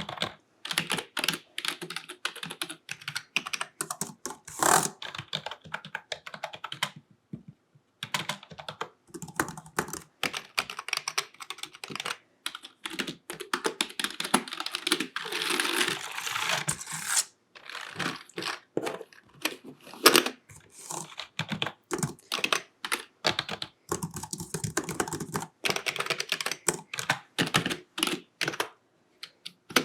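Typing on a computer keyboard with long fingernails: quick runs of clacking keystrokes broken by short pauses, with a dense stretch of rapid typing around the middle.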